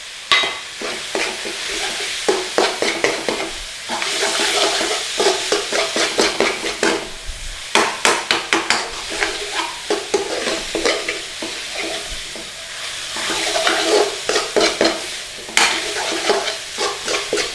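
A utensil repeatedly stirring and scraping chicken and onions frying in oil in a pan, just after the dry spices have gone in, over a steady sizzle. The scraping strokes come in runs, with short lulls between them.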